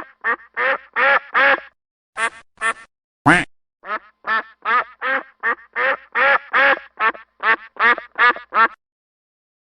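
A duck quacking in a rapid run of more than twenty short quacks, stopping shortly before the end.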